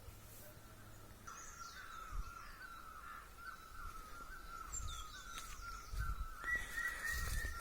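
Birds calling outdoors. One bird repeats a short call quickly over and over from about a second in, a second call joins near the end, and there are a few higher chirps. Several dull low thumps are heard along with the calls.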